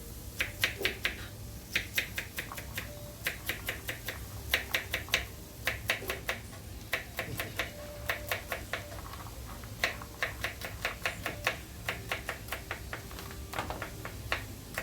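Kitchen knife chopping vegetables on a cutting board: runs of quick, sharp strokes, about six a second, broken by short pauses.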